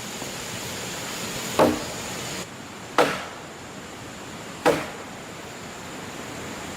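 Three sharp strikes of a tool on wood, about a second and a half apart, each ringing briefly, over a steady background hiss.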